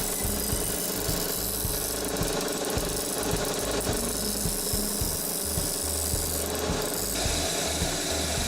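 Grinding machine running as the ends of a thick metal wire are ground against it, a steady grinding noise whose tone shifts about seven seconds in.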